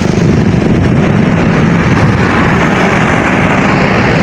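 Loud, steady rushing of fast-flowing floodwater in the Ravi River passing under a bridge.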